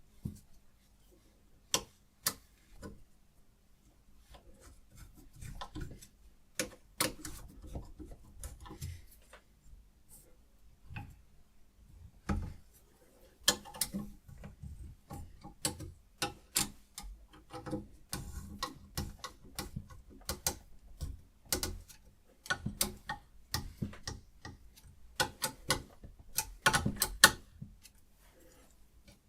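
Hapstone RS guided knife sharpener being worked with a diamond stone: a string of irregular sharp clicks and taps, some in quick runs, with light scraping between them.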